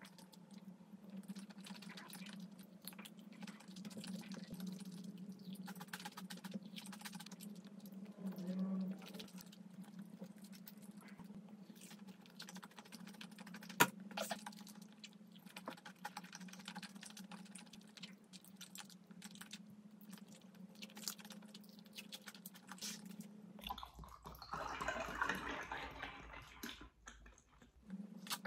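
Close-miked chewing of crunchy food: a continual run of small crackling clicks, with one sharper click about midway. Near the end comes a denser, louder stretch as she drinks from a mug. A steady low hum runs underneath.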